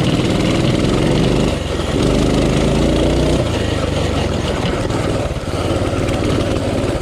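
Small gas engine of a cheap pit bike running under throttle while being ridden. Its revs rise and ease off, with brief dips about one and a half seconds in and again near five and a half seconds.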